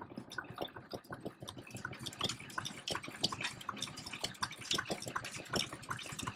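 Vintage stationary engines running, heard as a dense, irregular patter of clicks and ticks with no single steady beat.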